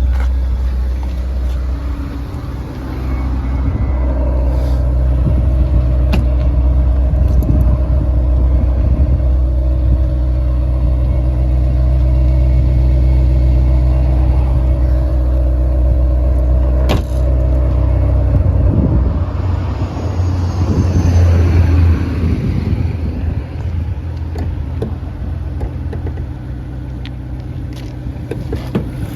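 Ferrari Portofino's twin-turbo V8 running with a steady low rumble; the sound shifts about 19 seconds in, with a brief rising and falling tone.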